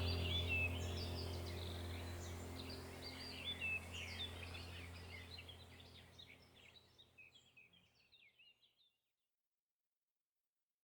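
Small birds chirping over a low steady hum, the whole sound fading out to silence over about eight seconds.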